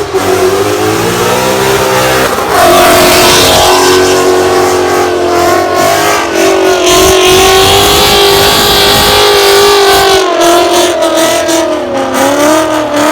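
Ford Mustang engine revving hard at high rpm. Its pitch dips and climbs for the first couple of seconds. It then gets louder and holds a high, near-steady pitch for about ten seconds.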